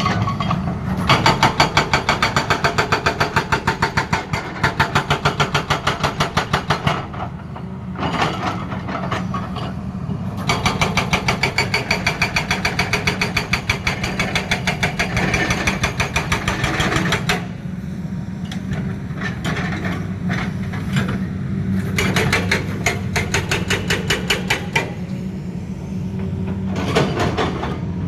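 Hydraulic breaker on a Tata Hitachi excavator hammering in long bouts of rapid, evenly spaced blows with short pauses between them, over the excavator's diesel engine running steadily.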